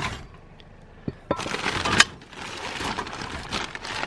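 Rummaging through a pile of discarded items: plastic rustling and crinkling with small clicks and knocks, starting about a second in, with one sharp knock near the middle.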